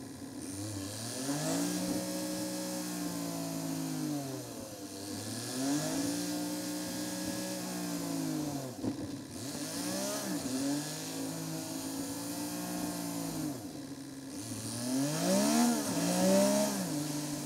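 Seat Ibiza's engine pulling away and easing off again and again, its pitch rising, holding and dropping about four times, with a steady hiss underneath. The audio is sped up with the 3x timelapse, so the revs climb and fall quickly.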